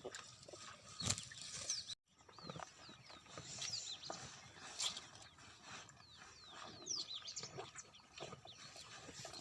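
Many small birds chirping together, lots of short quick chirps overlapping, with scattered light knocks and rustles. The sound drops out for a moment about two seconds in.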